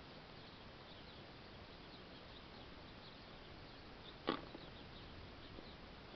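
Faint chirping of small birds, many short high chirps over a steady hiss, with one sharp click a little over four seconds in.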